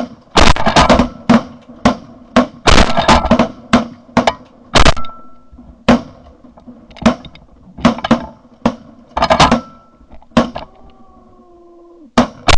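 Volley of shotgun shots from several goose hunters firing at once: many blasts in quick succession over the first five seconds, then single shots spaced a second or so apart, and a last shot near the end.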